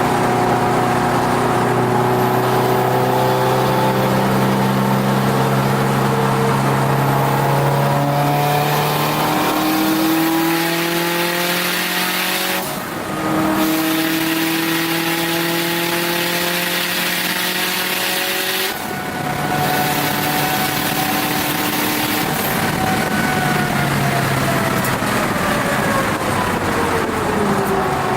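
Turbocharged Subaru WRX STi engine under hard acceleration on a race track, heard from inside the car. The engine pitch climbs, breaking briefly for upshifts about 13 and 19 seconds in, then falls away steadily near the end as the car comes off the throttle.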